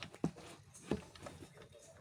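Several short clicks and knocks, about four in two seconds, from hand work on a car's engine parts during a tune-up.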